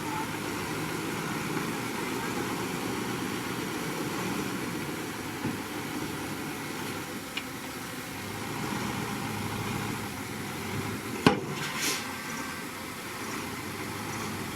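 Heavy earthmoving machine's diesel engine running steadily. About two-thirds of the way through there is one sharp metallic knock, followed at once by a brief hissing rush.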